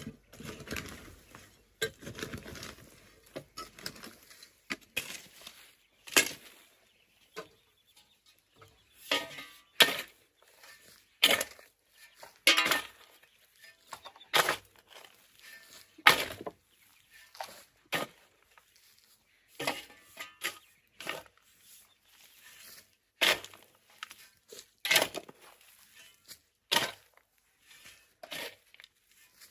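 An irregular series of short, sharp knocks, about one every second or two, some much louder than others.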